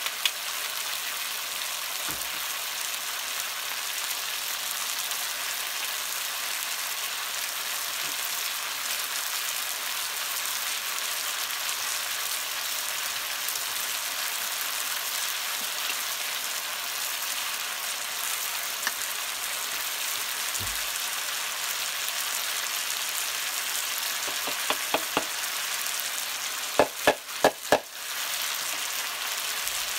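Sliced potatoes and vegetables sizzling steadily in oil in a wok, with a few sharp taps near the end.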